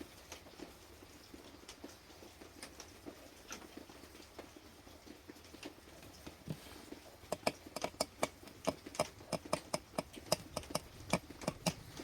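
A series of sharp taps or clicks, scattered at first, then coming about three or four a second from about seven seconds in.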